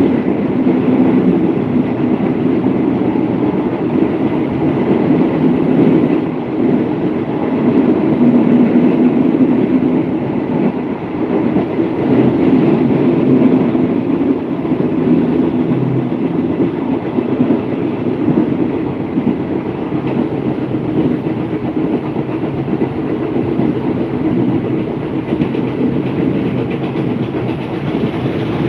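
Train running along the track, heard from an open carriage window: a steady rumble of wheels on rails.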